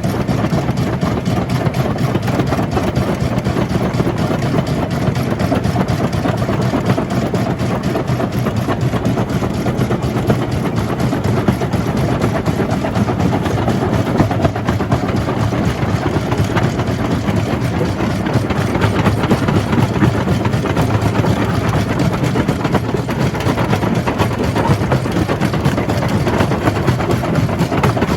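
Jaw crusher running steadily: a loud, continuous heavy mechanical drone with a dense rattle of rock being crushed.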